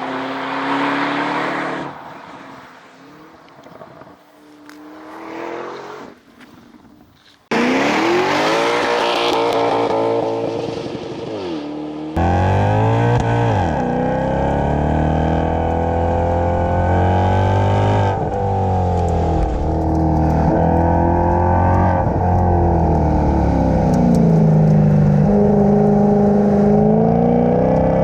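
High-performance car engines and exhausts, in three clips one after another with abrupt cuts between them. Each engine rises and falls in pitch as it is revved and lets off. The last clip is the loudest and longest and has a strong deep note.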